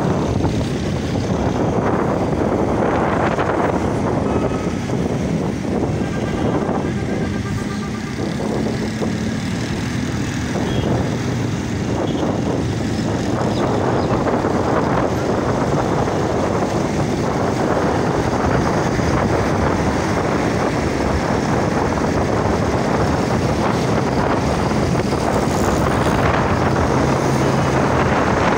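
A motorcycle riding along: a steady run of engine and road noise.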